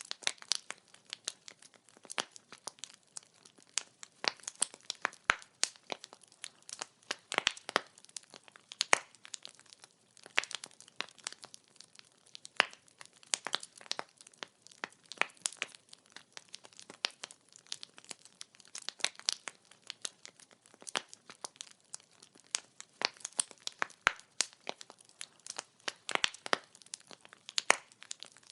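Wood fire crackling: firewood popping and snapping in a dense, irregular stream of sharp clicks, some louder snaps standing out.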